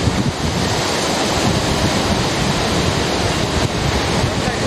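Sea surf breaking on a beach, a steady wash of noise, with wind buffeting the microphone.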